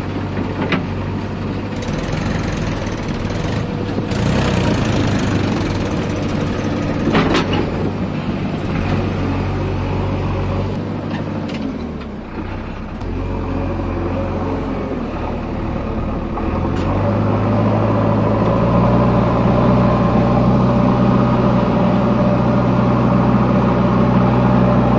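Heavy diesel engine running steadily, its note stepping up about two-thirds of the way through and holding at higher revs. A few sharp knocks in the first half.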